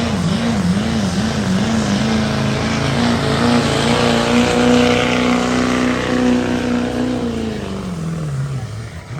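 Chevy diesel pickup engine running hard at high revs under load. The pitch wobbles rapidly up and down for the first couple of seconds, then holds steady, then drops away over the last two seconds as the run ends.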